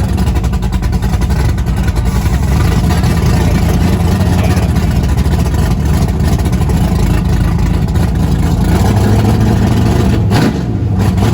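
Car engine running loudly with revving, a dense low rumble that holds steady throughout.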